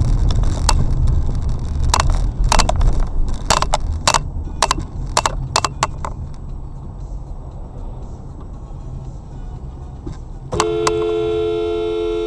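Vehicle road and engine rumble with a run of sharp clicks and knocks in the first half. Near the end a car horn sounds steadily for nearly two seconds.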